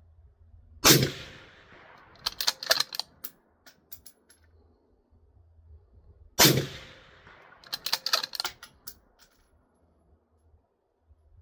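Two shots from an Accuracy International AT bolt-action rifle, about five and a half seconds apart, each with a fading tail. About a second and a half after each shot comes a quick run of sharp metallic clicks as the bolt is worked to feed the next round from the steel AW magazine.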